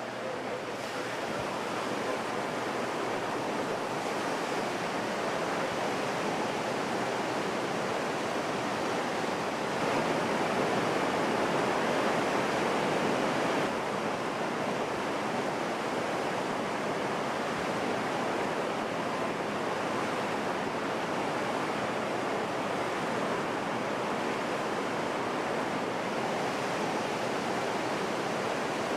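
Water pouring in through opened floodgates as a dock is flooded to float a ship: a steady rush of water, a little louder for a few seconds in the middle.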